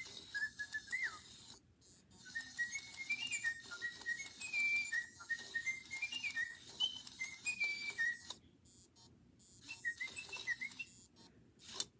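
Animatronic Clever Keet toy bird whistling a tune through its small speaker: a quick run of short stepped whistled notes, a pause about two-thirds of the way through, then a few more notes. A sharp click sounds near the end.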